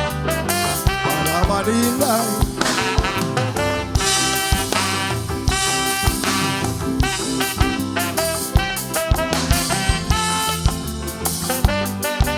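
Live calypso band playing an instrumental passage of the song, with a steady drum beat under sustained chords.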